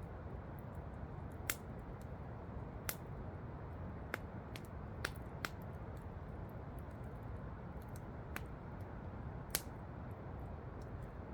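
Campfire crackling, with sharp irregular pops, a handful of them louder than the rest, over a steady rush of falling water from a waterfall.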